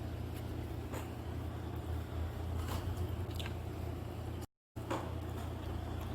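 A person chewing a mouthful of soft baked fish, with a few faint clicks, over a steady low hum. The sound drops out to silence for a moment about four and a half seconds in.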